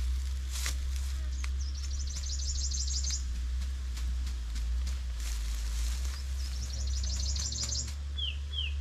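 Songbirds calling: a fast, high trill twice, then two short falling chirps near the end. Under them a steady low rumble and a few scattered clicks and rustles.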